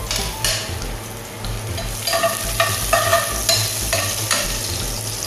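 Chopped garlic sizzling in hot oil in a pot, with a spoon stirring and scraping against the pot in repeated strokes from about two seconds in.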